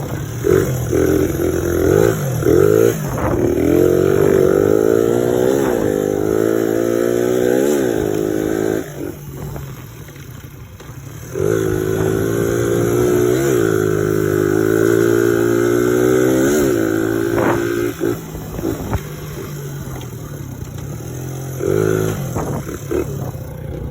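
A 1986 Suzuki DR100's small single-cylinder four-stroke engine is ridden under load, revving up through the gears. The pitch climbs and then drops at each shift. The throttle closes for about two seconds near the middle, the engine pulls up through two more shifts, and it eases off toward the end.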